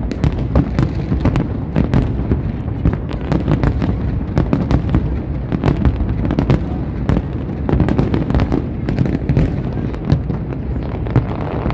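A large fireworks display going off loudly, a dense, unbroken run of bangs and crackles, several a second.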